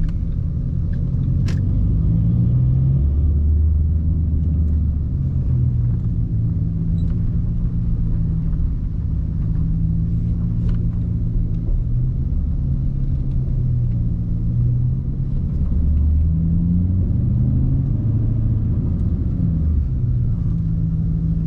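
Straight-piped 2010 Ford Mustang GT's 4.6-litre three-valve V8 running on the road, a low, steady exhaust note whose pitch rises and falls slightly a few times.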